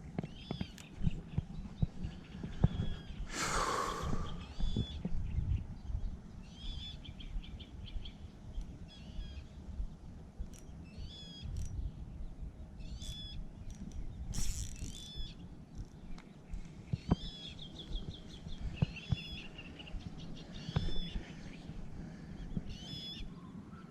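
Small songbirds chirping in short phrases repeated every second or two, over a steady low rumble, with one brief rustling noise a few seconds in.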